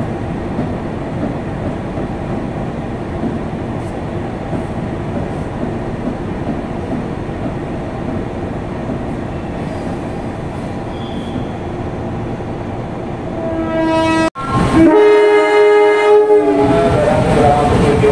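Indonesian diesel-electric locomotive and train running with a steady rumble. Near the end a horn blows briefly, and after a sudden break a louder horn blast of about two seconds, with many overtones, sounds over the continuing train noise.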